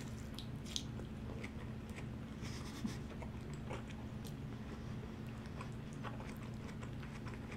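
Close-up mouth sounds of a man biting into and chewing a lettuce-wrapped In-N-Out 3x3 burger loaded with onion, with scattered faint clicks as he chews.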